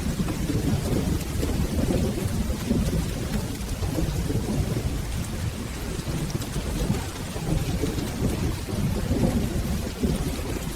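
Steady rain with a continuous low rumble of rolling thunder.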